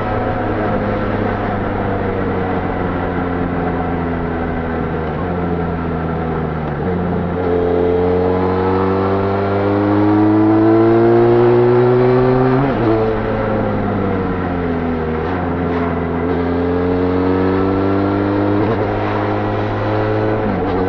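Benelli Leoncino 500's parallel-twin engine through its stock exhaust while riding, the revs rising and falling. There is a long climb in pitch from about seven seconds in, then a sudden drop about thirteen seconds in, and more sudden drops near the end.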